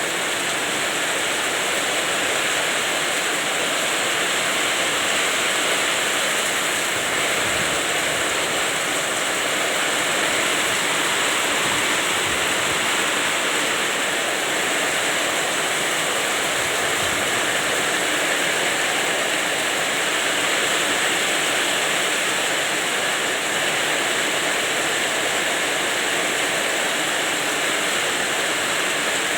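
Heavy rain and wind, an even, steady rush of noise.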